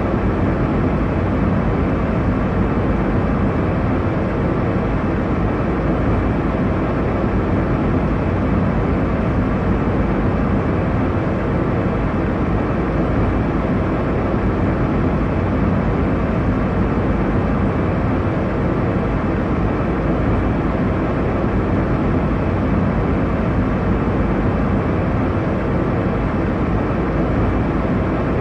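Steady airliner cabin noise in flight: an even, low rush of engine and airflow sound with no changes.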